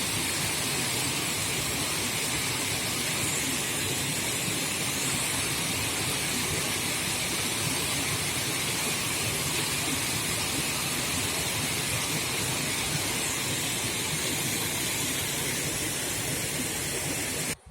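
Steady, even rushing hiss at a constant level, cutting off abruptly near the end.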